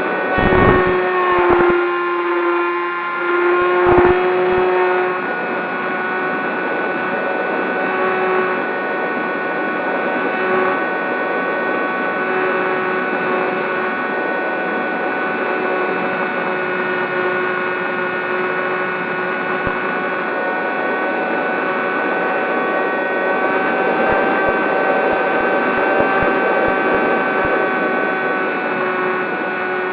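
Zohd Talon GT Rebel RC plane in flight, its electric motor and propeller giving a steady droning whine that drifts slightly in pitch. Wind thumps on the microphone in the first couple of seconds and again about four seconds in.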